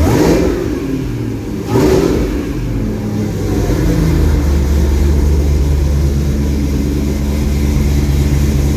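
Holden VZ Commodore's swapped-in LSA supercharged 6.2 L V8 blipped twice, about two seconds apart, then settling to a steady idle while still warming up from a cold start.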